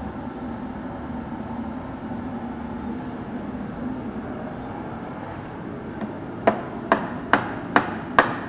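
A steady low hum, then, about six and a half seconds in, a run of sharp hammer blows, a little over two a second.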